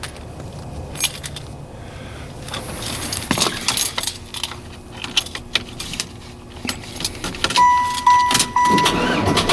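A key ring jangling and clicking as the key is worked in the ignition of a 1994 Chevrolet Impala SS. About three-quarters of the way in, a steady high electronic dashboard warning chime starts and pulses.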